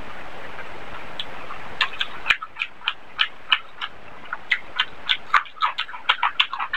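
Close-miked wet chewing and lip smacking of a mouthful of rice and spinach, a quick run of sharp mouth clicks several a second that starts about two seconds in. Before that, a steady hiss.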